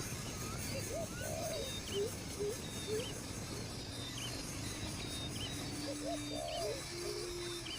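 Several birds calling: short chirps and hooked, rising whistles at a few different pitches, repeating every second or so over a steady hiss.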